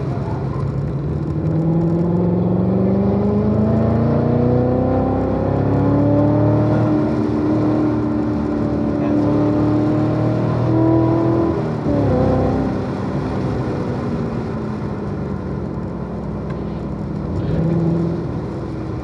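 Chevrolet Corvette C7 Z06's supercharged V8 under hard acceleration, its pitch climbing steadily for about ten seconds. About two-thirds of the way through the pitch falls away sharply as the throttle comes off, and the engine runs lower after that with a brief rise near the end.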